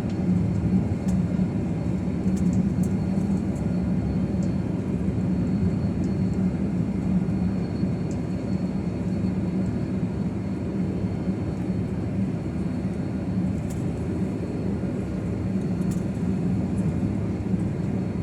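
Steady low rumble of an airliner cabin as the jet taxis after landing, with the engines and air conditioning humming and a faint, steady high whine above it.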